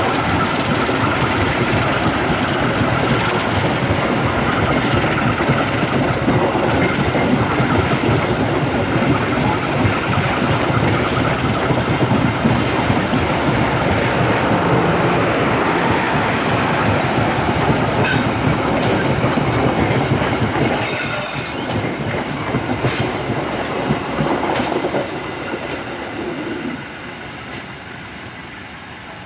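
Passenger train carriages rolling past close by, wheels clattering over the rail joints, with a few brief high wheel squeals past the middle. The sound dies down over the last few seconds as the end of the train draws near.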